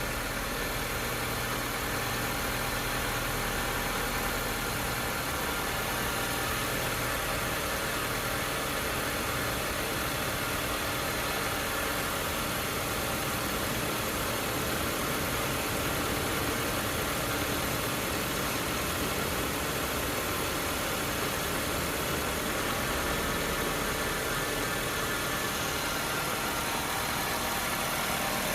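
Honda 1.3-litre i-DSI inline-four petrol engine idling steadily.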